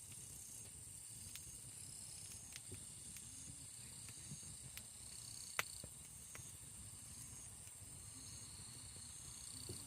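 Wood campfire crackling faintly, with scattered sharp pops and one louder pop about halfway through. A steady high insect drone with short chirps runs behind it.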